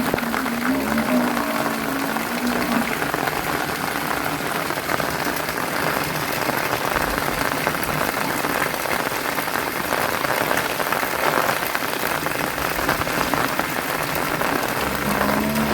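Heavy rain falling steadily: a dense, even hiss of drops hitting surfaces. A short pitched call is heard within the first three seconds.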